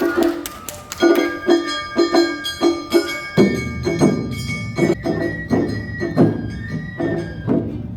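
Awa Odori festival band playing live: drums and bell keeping a steady beat of about two strokes a second under a bamboo flute melody. Deeper drums join about three and a half seconds in.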